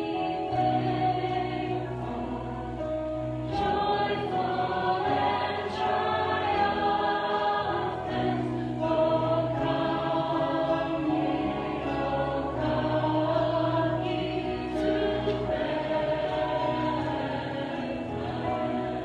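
Congregational worship music: voices singing a slow hymn over held instrumental chords, with a steady bass.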